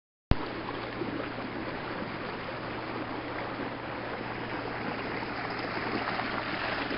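Rain-swollen creek water rushing steadily. It cuts in abruptly just after a moment of dead silence.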